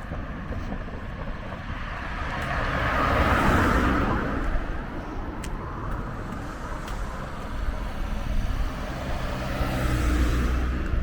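Street traffic: a car passes, its tyre and engine noise swelling and fading about three seconds in, and another car goes by near the end, over a steady low rumble.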